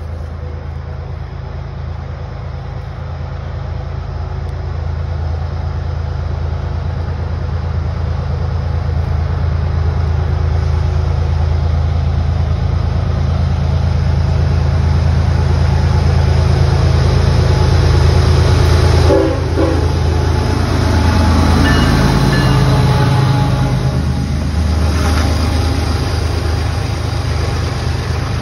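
Diesel freight train approaching and passing: a deep locomotive engine drone that grows steadily louder as it nears, then changes about two-thirds of the way through as the locomotives go by and the hopper cars start rolling past on the rails.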